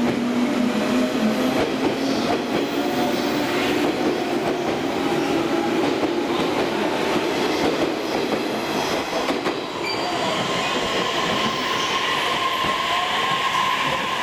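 JR 185-series electric multiple unit running along the platform, its wheels clacking over the rail joints. A steady high tone joins in about ten seconds in.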